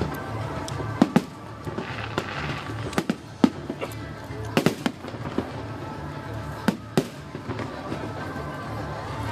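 Aerial fireworks bursting: a string of sharp bangs and cracks at irregular intervals, a few close together, over a steady background of music and crowd noise.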